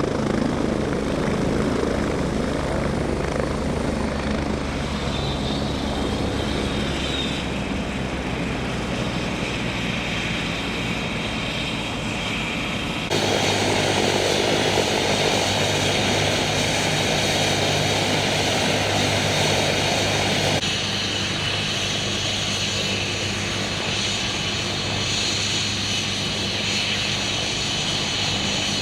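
Air ambulance helicopter running steadily, its engine and rotor making a constant low hum. The sound jumps louder abruptly about 13 seconds in and drops back about 20 seconds in.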